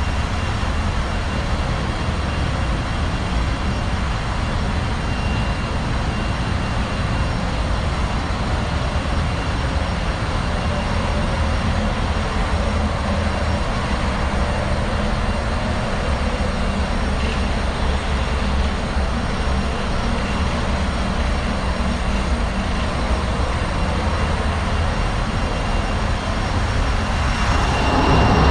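Ship's engine room machinery running: a loud, steady drone with a deep rumble and a faint steady high whine over it. It changes and grows a little louder near the end.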